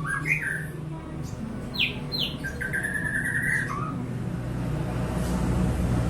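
White-rumped shama singing short whistled phrases. The notes glide up and down, two quick sharp falling notes come about two seconds in, then one held note, over a steady low rumble.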